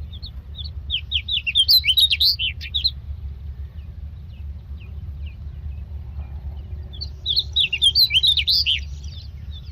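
Common myna nestlings begging in the nest: two bursts of rapid, high chirps, the first about a second in and the second about seven seconds in, with a few scattered chirps between, over a steady low rumble.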